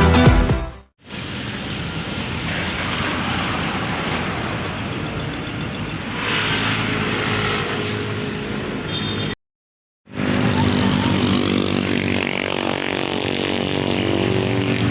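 Car engine and road noise, a steady drone with a low engine hum, cut off briefly by a short gap partway through.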